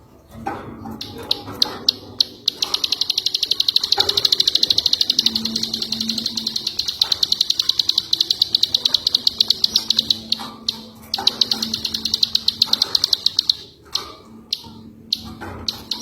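Songbird, the ciwah of the tutoring recording, singing a long, rapid trill of high ticking notes. It comes in extended runs, with a short break about ten seconds in and another near the end.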